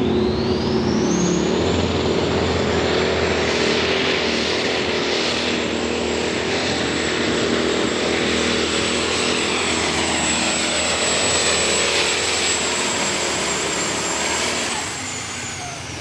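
Super Farm class turbocharged diesel pulling tractor running flat out under load. A high turbo whistle rises within the first second or two, holds steady, and falls away near the end as the engine comes off full power.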